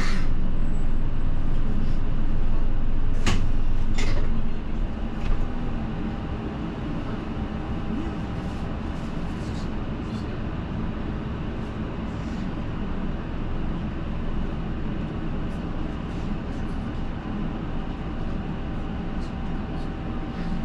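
Route bus engine and road noise heard from inside the cabin, with a few sharp knocks or rattles in the first four seconds. The drone drops noticeably in level about four and a half seconds in and then runs on more quietly.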